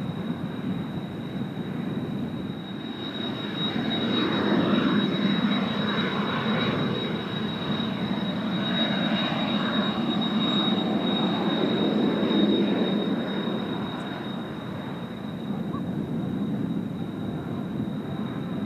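Kawasaki T-4 jet trainers flying overhead: twin turbofan engines with a steady high whine over a rushing jet noise that swells about four seconds in, peaks twice, and eases off near the end.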